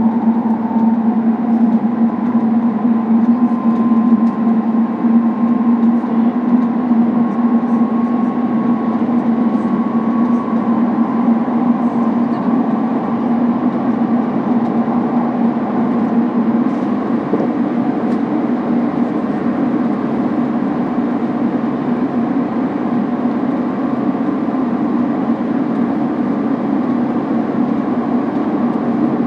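Running noise inside a Keikyu limited express (Kaitoku) passenger car under way: a steady low hum and rumble. A faint high whine rises slightly in pitch over roughly the first ten seconds.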